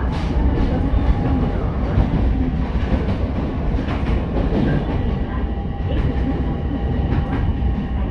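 Ichibata Electric Railway 7000 series electric railcar running along the track, heard from inside the car: a steady low rumble with faint steady tones above it and a few scattered clacks from the wheels over the rails.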